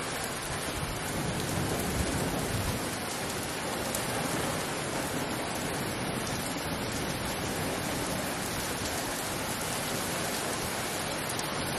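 Heavy rain pouring down, coming down cats and dogs: a steady, dense hiss of rain.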